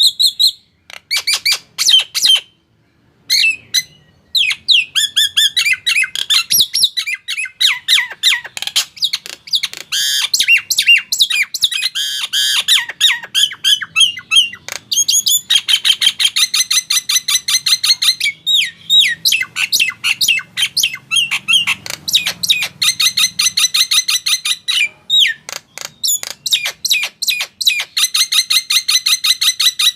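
Male Nias hill myna calling without pause: loud squawks and whistled notes mixed with long runs of fast, rapidly repeated chattering notes.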